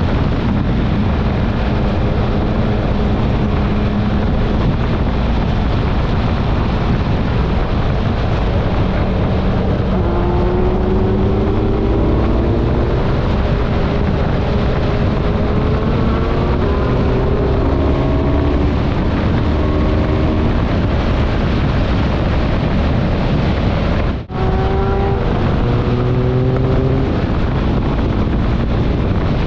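Motorcycle engine running on the road under heavy wind noise on the microphone. The engine note climbs several times as the bike accelerates through the gears, with a brief break in the sound about three-quarters of the way through.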